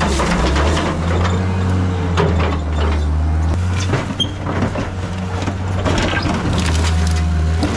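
John Deere 323D track skid steer's diesel engine running steadily under work, with scattered clanks and knocks from the machine.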